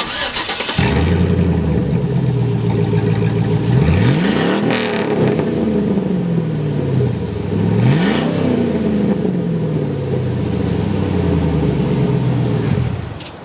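Pickup truck engine with a straight-piped exhaust, the catalytic converters cut out, starting up about a second in and idling. It is revved twice, around four and eight seconds in, each rev rising and falling back to idle, and cuts off near the end.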